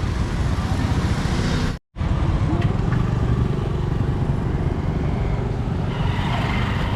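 Roadside traffic noise: a steady rumble of passing road vehicles, cut by a brief dropout about two seconds in.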